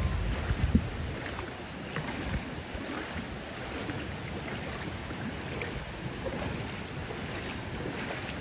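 Steady rush of water at a waterfall, an even hiss with no tone in it.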